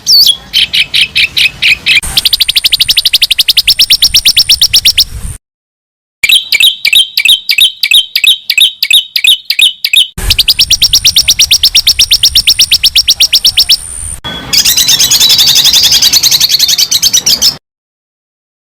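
Recorded songbird calls edited together as a masteran track for training songbirds. There are quick downward chirps, then fast trains of repeated high notes and trills, a slower run of about four notes a second, and a dense warbling song near the end. The recording cuts off abruptly into full silence twice, about five seconds in and near the end.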